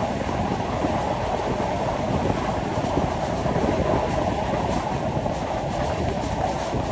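Train running steadily on the rails: a continuous, even rumble of wheels on track.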